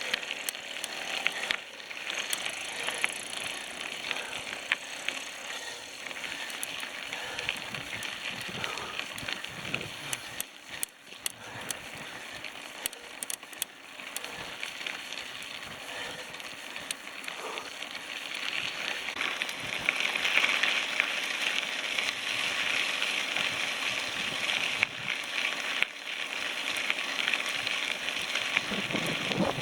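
Bicycle ride noise: tyres rolling steadily, with scattered clicks and rattles from the bike, growing louder about two-thirds of the way through.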